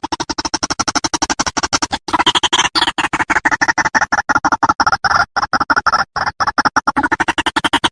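Recorded white-breasted waterhen (ruak-ruak) call played as a bird lure: a rapid, harsh chattering run of clipped notes, about nine or ten a second, with a brief break about two seconds in.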